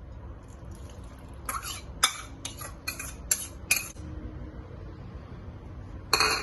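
Metal spatula scraping and knocking against a wok as soaked glutinous rice and water are spread and levelled. There are about seven quick sharp strokes in a row starting about a second and a half in, then a longer scrape near the end.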